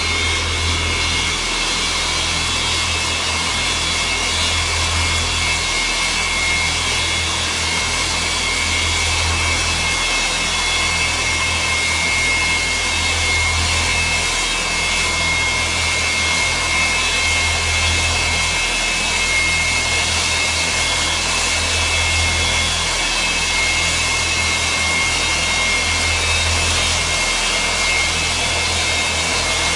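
Antonov An-225's six turbofan engines running steadily, a constant rushing roar with a high steady whine over it and a low hum that swells and fades about every four seconds.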